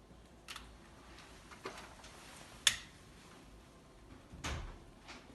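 A newly lit wood fire in a fireplace, just catching, giving a few separate sharp crackling pops. The loudest pop comes about two and a half seconds in, and a duller knock follows near the end.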